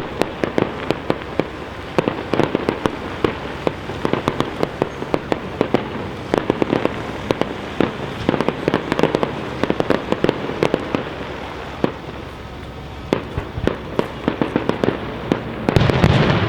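Professional fireworks display: dense, rapid cracking and popping of bursting shells and effects, with a louder, deeper boom near the end.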